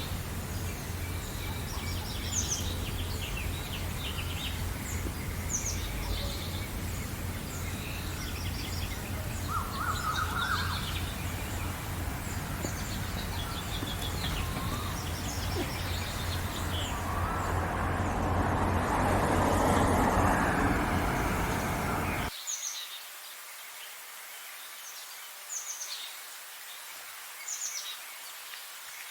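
Small birds chirping and singing in short high calls throughout, over a steady low background rumble. A rushing noise swells near the end of the rumble, which then cuts off suddenly about two-thirds of the way through, leaving only the bird calls, now quieter.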